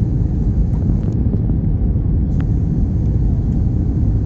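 Steady low rumble inside the cabin of an Airbus A321-231 with IAE V2533-A5 engines, around its landing, with a few faint clicks.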